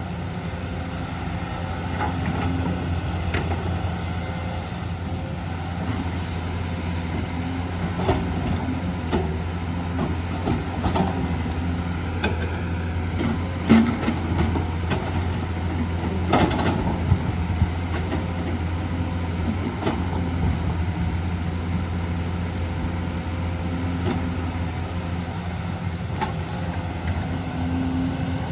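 Hyundai excavator's diesel engine running steadily under work, with a scattering of sharp knocks and clanks, the loudest two about halfway through.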